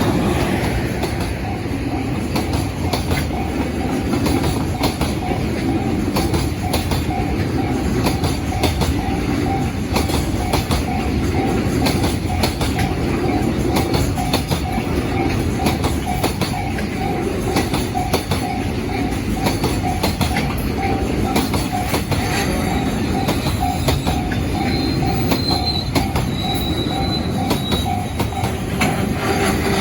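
Container freight train hauled by an EH500 electric locomotive rolling past, its Koki container wagons loaded with heavy dead-weight containers. Steady rumbling, with wheels clicking over rail joints and a thin continuous squeal, plus a few brief higher squeals near the end.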